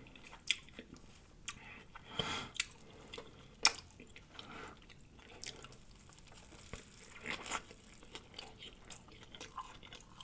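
Close-miked chewing and mouth smacking, quiet and scattered wet clicks and smacks.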